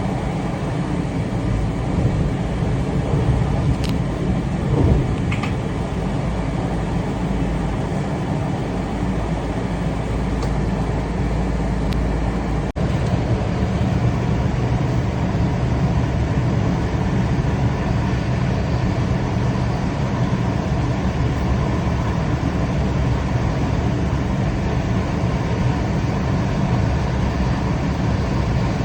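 Steady running rumble of a moving train, with a momentary break about 13 seconds in.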